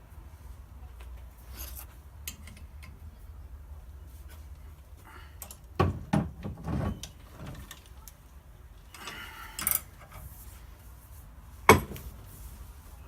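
Hand work on small parts: a few knocks and clinks about six seconds in, a scraping rub around nine seconds, and one sharp knock near the end, over a steady low hum.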